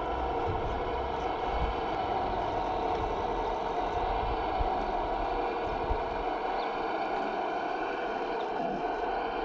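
A radio-controlled scale construction machine running, with a steady, buzzy motor or pump whine and a few light knocks and clatters.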